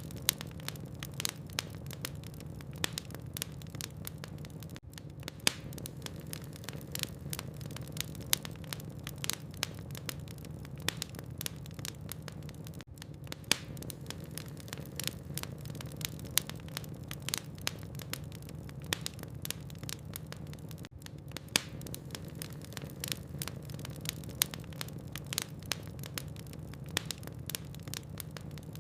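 Logs burning in a fireplace: irregular sharp crackles and pops, several a second, over a steady low hum.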